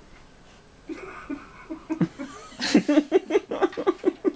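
People laughing at close range, starting softly about a second in and breaking into louder, rapid bursts of laughter near the end.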